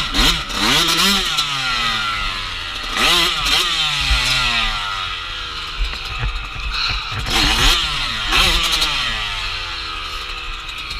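Dirt bike engine being ridden on a trail: the pitch climbs and drops again and again as the throttle is opened and shut and gears change, with a heavy low rumble of wind on the microphone.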